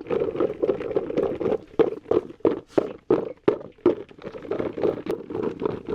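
Steady rhythmic knocking, about three strokes a second.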